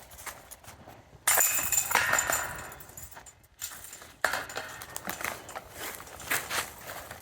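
Chains of a disc golf basket rattling and jingling as discs hit them, twice: once about a second in and again about three seconds later, each clatter fading over a second or two.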